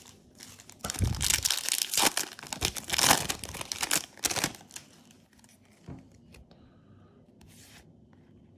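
A foil Yu-Gi-Oh booster pack wrapper being torn open and crinkled. The crackling is loud for about three and a half seconds, then comes a couple of brief, softer rustles.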